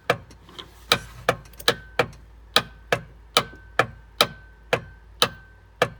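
Rapid repeated clicking from the 1995 Sea-Doo GTS's electrical box as the start button is pressed, about two to three sharp clicks a second, several followed by a short high beep, with no engine cranking. The owner takes it for a failed starter solenoid.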